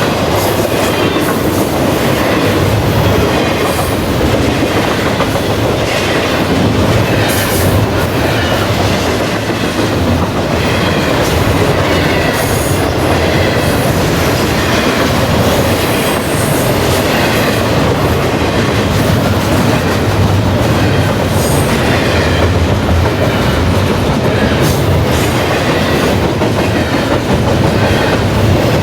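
Double-stack intermodal freight cars of a Norfolk Southern train rolling past: a steady, loud wheel-and-rail rumble with irregular clicks as wheels cross rail joints.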